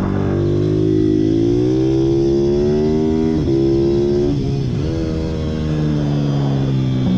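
Pit bike engine revving. Its pitch climbs for a couple of seconds, dips sharply twice around the middle, then slowly falls toward the end.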